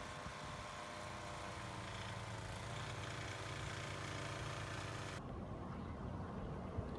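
A motor vehicle engine idling, a low, steady hum.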